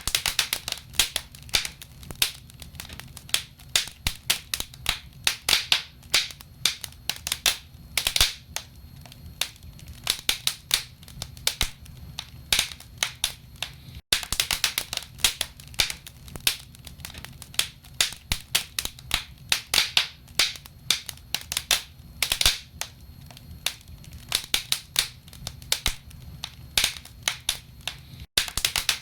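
Wood burning in a fireplace: logs crackling with many irregular sharp pops and snaps, several a second, over a low steady rumble.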